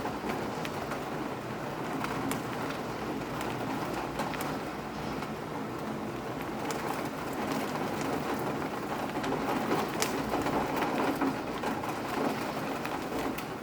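Steady rain falling, with scattered sharp taps of individual drops landing close by.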